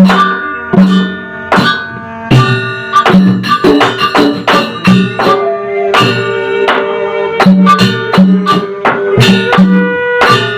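A Sasak gamelan ensemble playing a gending for Wayang Sasak. Hand-drum strokes come in irregular pairs under ringing struck-metal tones, and a held melody line moves in steps above them.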